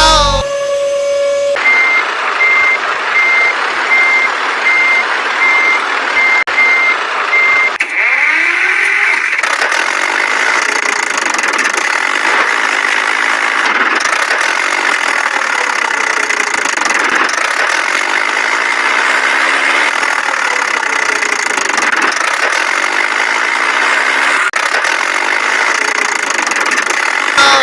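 A vehicle engine runs steadily while a reversing alarm gives a regular series of high beeps for about six seconds from near the start. After that the engine continues alone.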